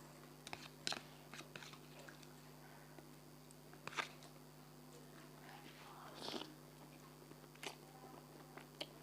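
Eating sounds close to the mic: quiet chewing broken by a handful of sharp crunchy bites, over a faint steady hum.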